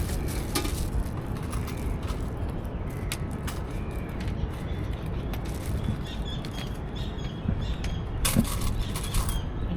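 Outdoor street ambience: a steady low rumble of wind and distant traffic, with a few faint bird chirps and some brief clicks in the last couple of seconds.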